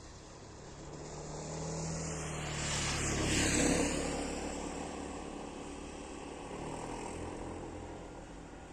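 A pair of ADtranz DE2000 diesel locomotives running in multiple hauls a passenger train past, their engines rumbling as they come closer. The sound is loudest about three and a half seconds in, with a high tone that drops in pitch as they go by, then fades as the coaches follow.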